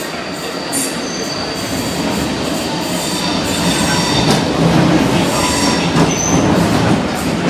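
London Underground C Stock train running through the station, its wheels squealing on the rails in high, thin steady tones over the rumble. It grows louder through the first half.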